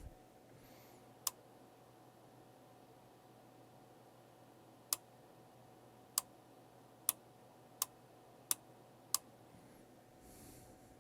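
Seven sharp single clicks, irregularly spaced: one about a second in, the other six close together in the second half. A faint steady electrical hum lies underneath.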